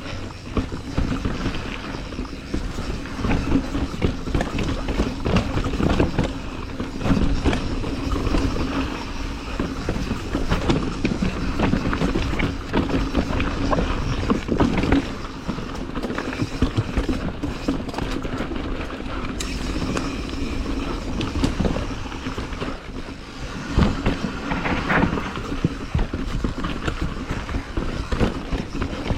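Lapierre mountain bike riding down a bike-park trail: the tyres roll over dirt and rocks, and the chain and frame rattle with a continuous clatter of small knocks.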